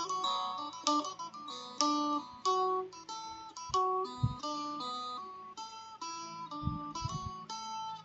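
Phin, the Isan plucked lute, playing a quick melody of sharply picked single notes, tried out with its frets newly fitted.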